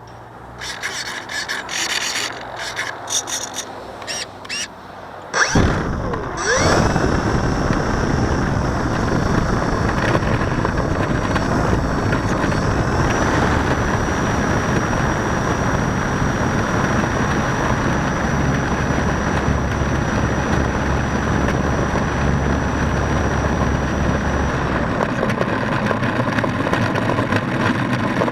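First, scattered clicks and handling knocks. About five seconds in, the RC plane's electric motor spins up with a quick rising whine. After that, the motor, propeller and air rush run loud and steady.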